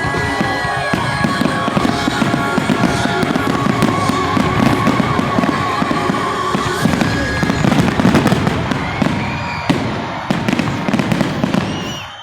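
Fireworks going off in a rapid, dense barrage of bangs and crackles, dying away near the end.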